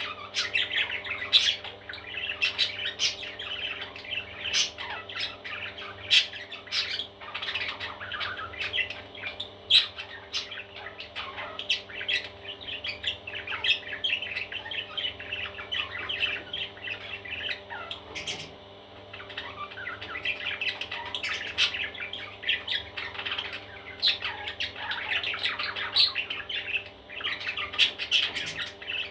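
Baby parrots chirping and squawking in a continuous dense chatter of short calls, with sharp clicks here and there over a steady hum.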